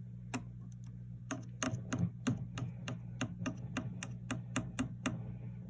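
A chopstick tapping on the parts of a 1967 Fender Bandmaster tube amp: a run of sharp taps, about three to four a second, that stops about five seconds in. Under it the amp gives a steady mains hum. This is a tap test to find what is causing the amp's rumbling noise.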